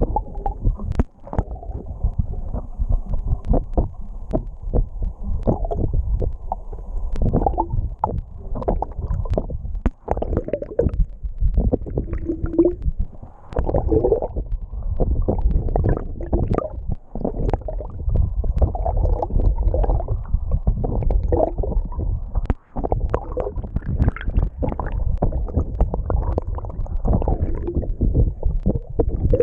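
Water rushing and gurgling past a camera held underwater from a moving sailboat, muffled and rumbling, with scattered small clicks and knocks.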